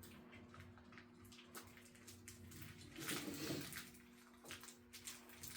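Faint rustling and small clicks of a wiring harness being handled and wrapped with cloth tape and split wire loom, with a louder scuffle about three seconds in, over a steady low electrical hum.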